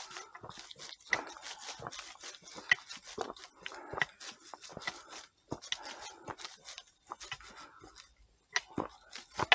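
Hikers' footsteps going uphill on a forest trail: an irregular run of crunching steps and sharp clicks.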